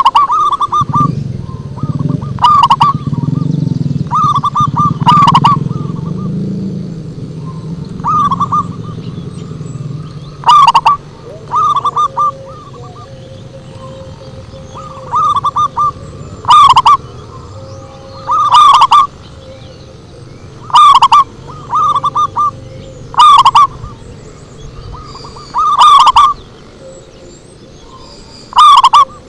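Zebra dove (perkutut) song: short phrases of quick, rolling coo notes, repeated every one to two seconds. A low rumble runs under the first several seconds and then fades.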